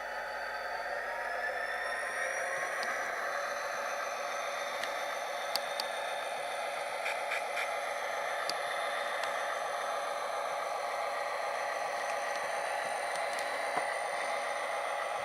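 Model locomotive sound decoder playing an EMD 645 diesel engine sound through the model's small speaker. The engine revs up, rising in pitch over the first couple of seconds, then runs steadily, with a few faint clicks.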